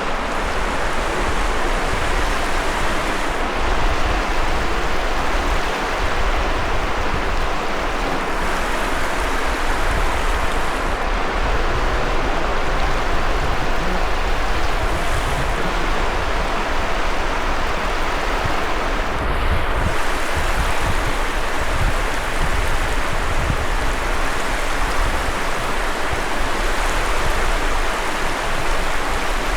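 Sea surf washing onto a sandy beach: a steady hiss of breaking waves, with a low rumble of wind on the microphone underneath.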